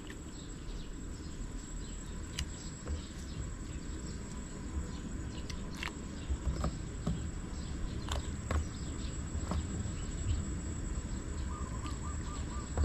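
Rural outdoor ambience: a steady high insect drone with a low rumble beneath, broken by scattered light clicks and taps, and a short run of chirps near the end.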